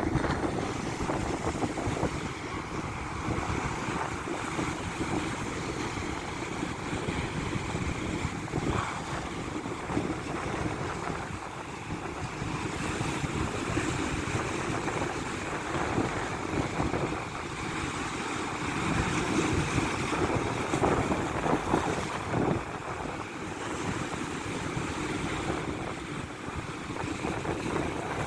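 Wind buffeting the microphone over the continuous rush of large waves breaking on the shore, swelling and easing in loudness.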